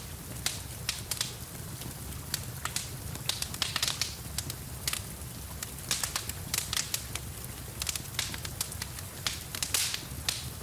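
Wood fire crackling in a fireplace, with irregular sharp pops and snaps several times a second, over a steady hiss and low rumble of rain.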